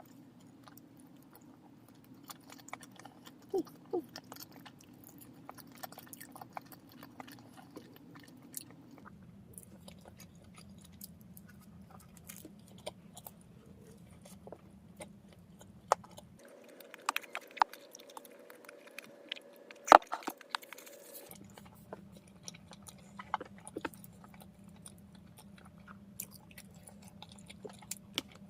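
A person chewing bread topped with herbs, tomatoes, meat and olives: soft wet mouth clicks and occasional crunches, with a few louder bites around a third and two thirds of the way in, over a faint low hum.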